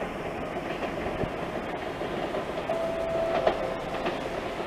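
Shinkansen train rolling slowly into the station over the points: a steady rumble of wheels on rail with light clicking. A brief steady tone about two-thirds of the way through.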